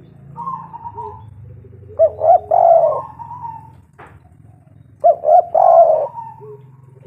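Spotted dove cooing: two loud phrases of several short notes, each ending in a longer note, about three seconds apart, with a fainter call near the start. A single sharp click falls between the phrases, over a steady low hum.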